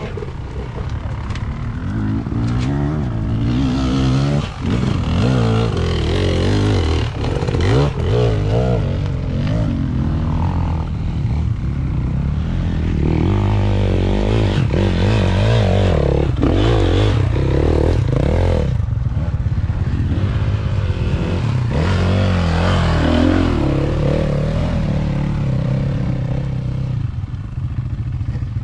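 Motocross bike engine revving hard, its pitch rising and falling over and over, with clattering and scraping.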